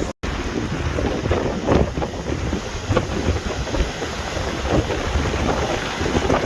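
Strong nor'easter wind buffeting the microphone over the steady rumble of heavy surf. The sound cuts out for an instant just after the start.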